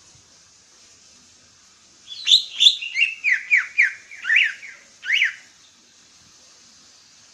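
Songbird singing one loud phrase of about ten quick whistled notes, most sweeping sharply downward, starting about two seconds in and lasting some three seconds. A faint steady hiss runs underneath.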